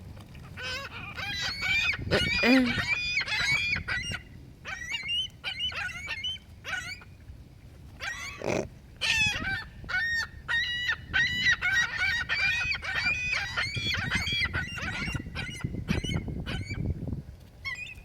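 A flock of seagulls calling over and over, with many overlapping squawking cries as they compete for thrown food. A low rumble runs underneath.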